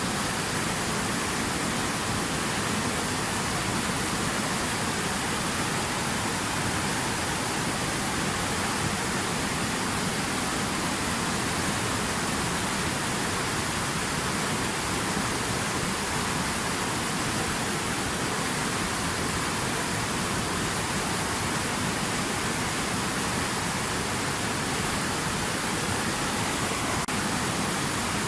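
Steady rushing of water over river rapids, an even, unbroken noise.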